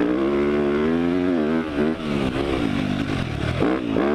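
Motocross dirt bike engine running hard under throttle, its pitch rising and falling as the rider works the throttle, with a brief drop off the throttle near the end before it revs up again.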